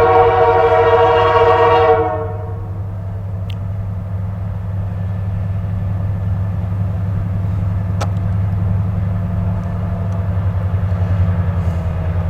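Diesel locomotive horn sounding a multi-note chord that cuts off about two seconds in, leaving the locomotive's engine running with a steady low drone. The locomotive is a Canadian Pacific GP20C-ECO, powered by a Caterpillar 3512C V12 diesel.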